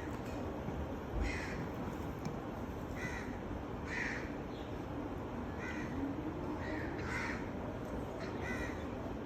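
A bird calling over and over, short calls about once a second, over a steady low background noise.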